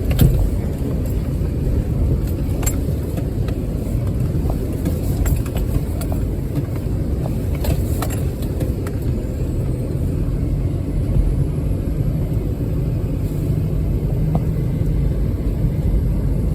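Can-Am side-by-side running along a rough trail: a steady low rumble of engine and driveline, with a few scattered light clicks and knocks.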